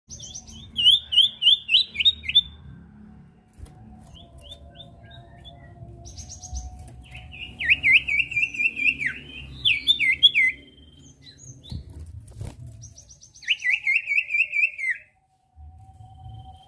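Common iora singing in three bouts of fast, repeated, sharply pitched phrases, over a faint low hum.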